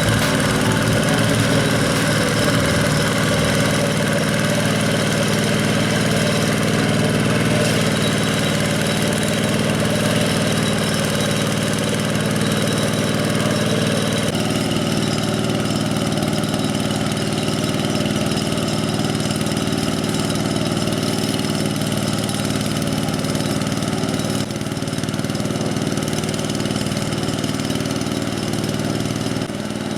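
Diesel engine of a two-wheel hand tractor running steadily. The engine note shifts abruptly about halfway through and again later.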